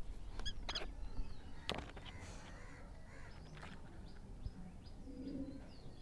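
Young pet parrot giving short, scattered squawky chirps, with a sharp click a little under two seconds in.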